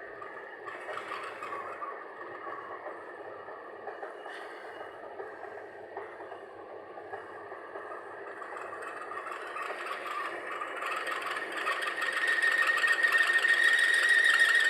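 Air compressor running with a steady mechanical whir. From about eight seconds in it grows louder, and near the end a high steady whine comes in strongly.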